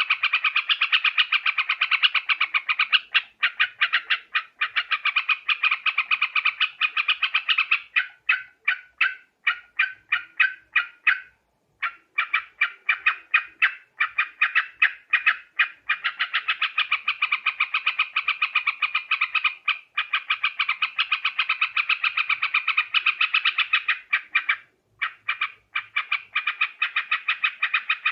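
Yellow-vented bulbuls (trucuk) chattering in a rapid, continuous stream of bubbly notes. The stream thins into separate notes about a third of the way in and breaks off twice, briefly. This is the call used as a lure to draw the species in.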